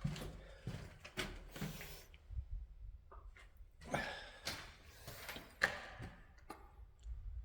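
Footsteps with scattered knocks and scuffs, irregular and sharp.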